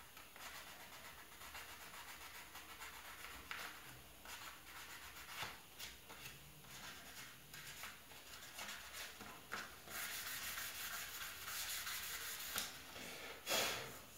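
Sandpaper being rubbed by hand over a plastic car trim piece, scuffing it for paint in irregular strokes, denser and louder for a few seconds near the end with one brief louder scrape.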